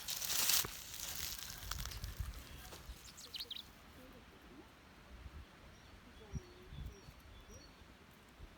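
Rustling and handling noise at the start and again briefly about three seconds in, then a quiet outdoor background with faint, short bird chirps.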